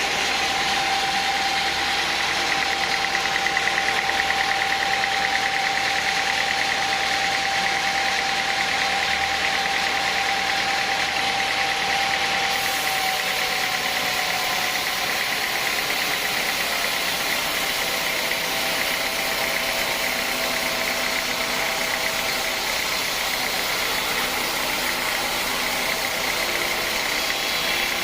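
Sawmill machinery running steadily: a loud, even mechanical noise with a held whine. A clear steady tone in it fades out about halfway through.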